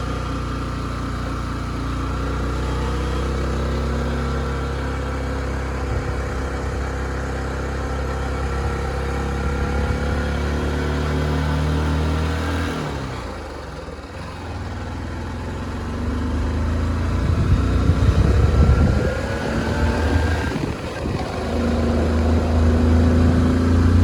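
A motor vehicle's engine running on the road. Its pitch sinks and it drops away about halfway through, then it picks up again, with wind gusting on the microphone in the second half.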